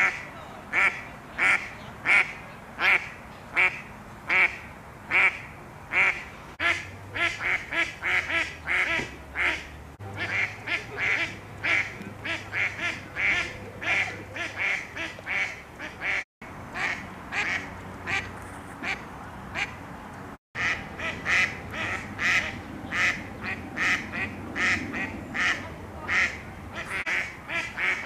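Female mallard ducks quacking loudly in a long series. The quacks are evenly spaced at first, then come faster and overlap from about six seconds in.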